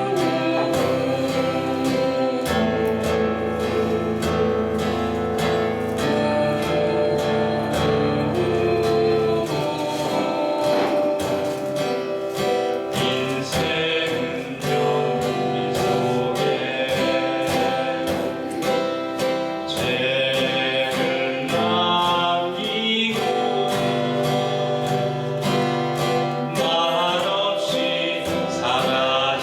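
Acoustic guitar strummed in a steady rhythm while two singers sing a Korean folk song together.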